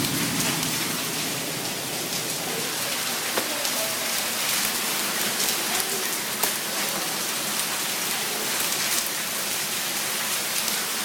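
Hailstorm: a steady hiss of falling hail and rain, with scattered sharp ticks of hailstones striking.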